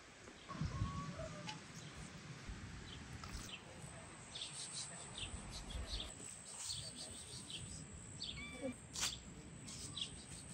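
Songbirds chirping in many short, high calls in quick succession, some gliding in pitch, mostly from about three seconds in. A low rumbling noise, the loudest part, comes in the first couple of seconds.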